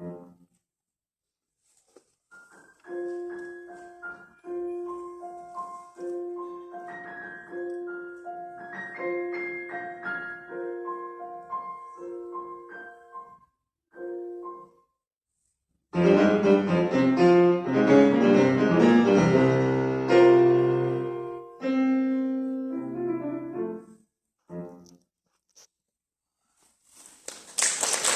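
Solo piano playing the end of a piece: a soft passage of repeated notes broken by pauses, then a loud passage of full chords, a few last notes and a silence. Audience applause starts near the end.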